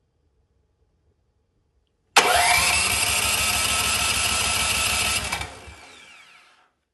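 Cub Cadet snowblower's electric starter cranking the engine for about three seconds with a fast, even chugging. It starts suddenly with a short rising whine, then winds down without the engine catching. The engine fails to fire, which the owner puts down to a wet, fouled spark plug.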